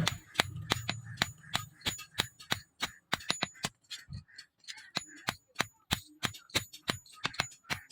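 Hammer striking leaf-spring steel in quick, irregular blows, about four a second, each with a short metallic ring.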